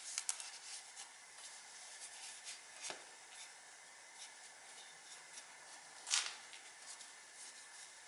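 Light rubbing and scraping with small clicks as parts and tools are handled, with a sharper click about three seconds in and a louder scrape about six seconds in, over a faint steady hiss.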